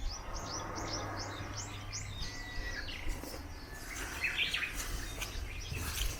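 Wild birds chirping: a quick series of high, falling chirps, about four a second, in the first two seconds, then a different cluster of lower chirps around four seconds in.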